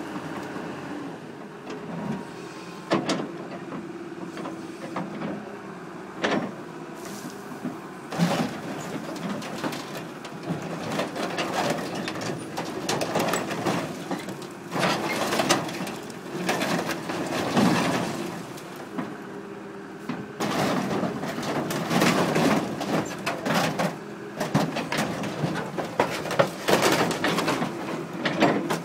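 The metal body of a combine harvester crunching, scraping and banging as it is crushed, over the steady running of a heavy machine's engine. The crunches and bangs come irregularly, several of them loud.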